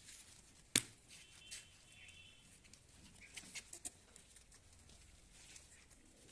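Quiet goat-shed sounds: one sharp knock about a second in, then a faint high chirp and a few light clicks.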